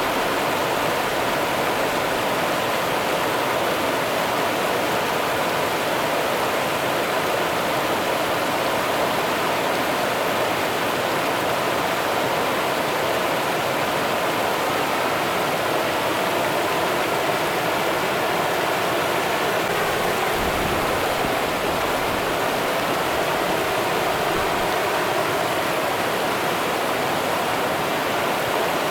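Rio Grande river water running over rocks: a steady, even rush of flowing water.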